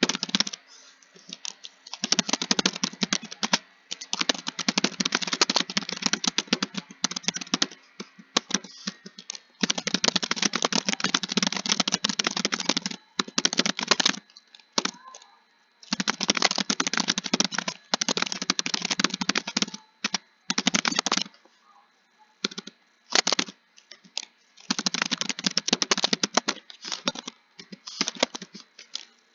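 Computer keyboard typing: fast, dense key clicks in runs of several seconds, broken by short pauses.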